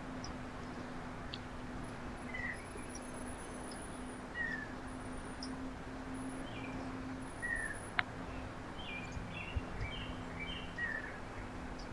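Small songbirds calling at a backyard feeder: short falling chirps every couple of seconds, with thin high notes and a quick run of calls later on, over a steady low hum. A single sharp click about eight seconds in.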